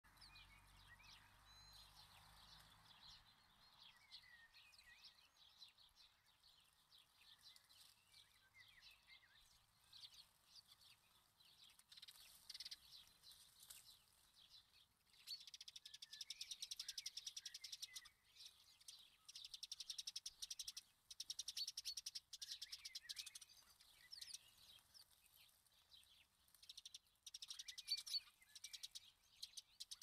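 Faint wild birdsong: small birds chirping and calling, with long, very fast trills lasting a few seconds at a time from about halfway through.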